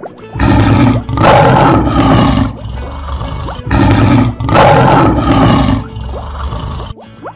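Lion roar sound effect, the same roar played twice: two rough, loud roars of about two seconds each, about three seconds apart.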